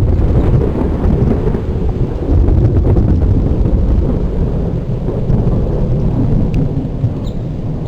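Thunder rumbling low and continuously over falling rain, swelling a little about two seconds in.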